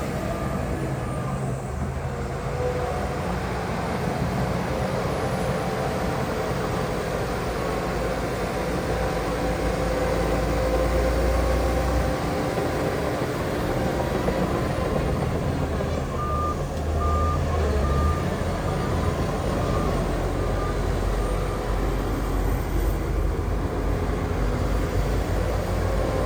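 Heavy diesel engines of a dump truck and bulldozer running steadily with a deep rumble. A reversing alarm beeps about twice a second for a few seconds past the middle, then fades.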